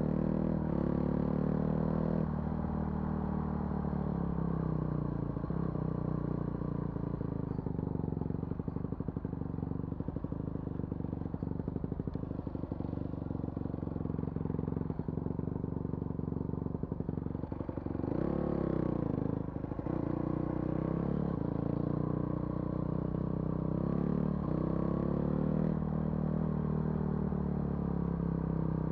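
A vehicle engine running under way on a rough forest road, its pitch rising and falling with the throttle. Rapid rattling comes through in the middle, and a quick rev and drop follows later on.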